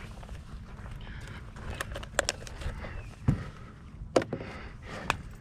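Scattered sharp clicks and knocks, about six of them, over a steady low rumble.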